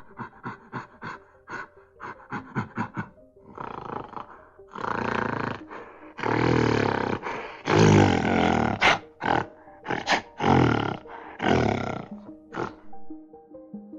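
A large animal roaring several times over background music, with short calls in the first few seconds and longer, louder roars in the middle.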